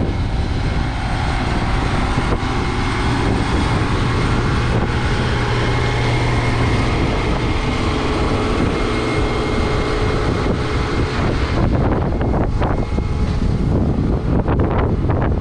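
Heavy farm machinery engine running steadily and loud, with a low hum under a broad mechanical noise; from about twelve seconds in it is joined by rattling and clicking.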